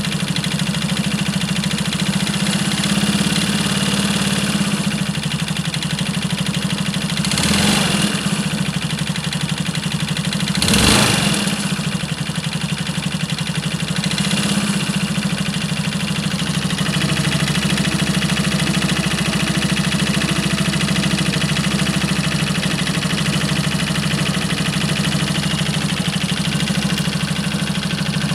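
Suzuki 125 cc scooter engine idling steadily, blipped twice briefly, near 8 s and 11 s in, with a rise and fall in pitch. It is being run to show an abnormal engine noise.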